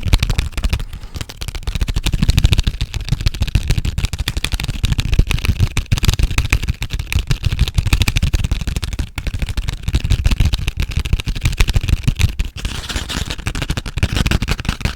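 Fast, aggressive tapping and scratching right against a sensitive microphone: a dense, unbroken run of sharp clicks with heavy low thumps, many strokes a second.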